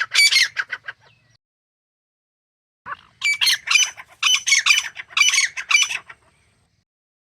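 Grey francolin calling: a rapid run of harsh, repeated notes that fades out about a second in. After a silent gap, another run of calls lasts about three and a half seconds.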